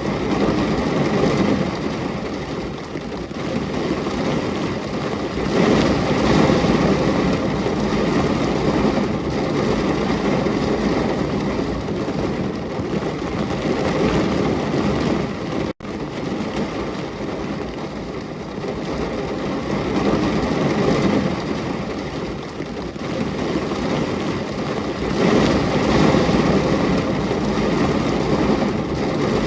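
Steady heavy rain, swelling and easing every few seconds, with a momentary gap in the sound about halfway through.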